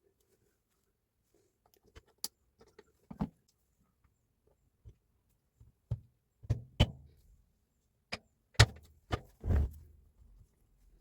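Irregular knocks and clunks of hard parts being handled, about a dozen, with the loudest coming in the second half.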